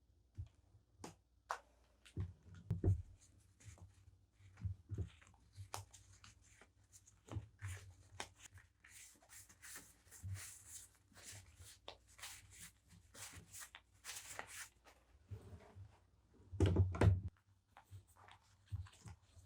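Hands unboxing and handling stationery and its packaging: scattered taps and clicks, a stretch of crinkly packaging rustle in the middle, and a louder knock of an item set down about three-quarters of the way through.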